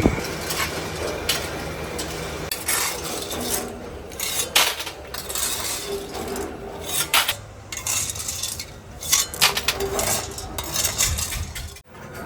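Small metal pieces clinking and scraping against each other in irregular strokes, some loud and some faint, over a low steady hum.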